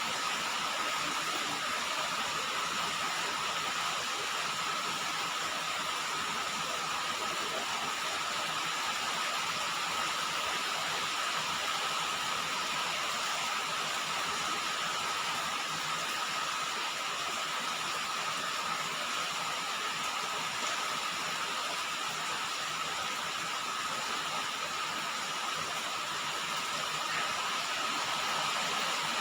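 Rain falling on a roof: a steady, dense hiss that does not change.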